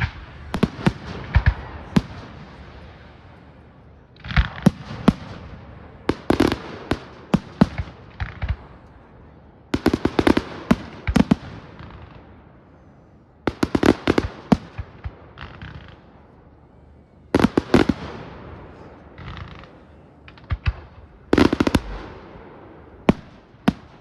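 Fireworks display: sharp bangs come in clusters every three to four seconds, each cluster trailing off in an echoing rumble.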